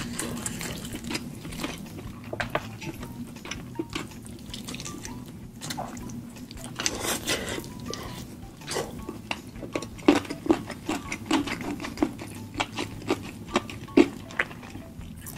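Close-up eating sounds: chewing and tearing into saucy chicken and handling the food on a plate, a run of short wet clicks and smacks that grow denser and louder in the second half.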